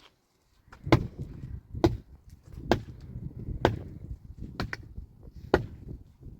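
Steady chopping: six sharp strikes, a little under a second apart.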